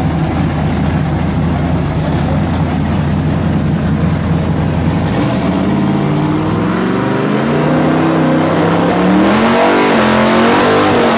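Drag-racing car engines idle steadily, then from about five seconds in they rev up and down, growing louder toward the end.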